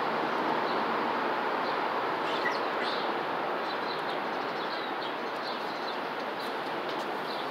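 MBTA commuter rail train pulling away, its steady running noise slowly fading. Small birds chirp repeatedly over it.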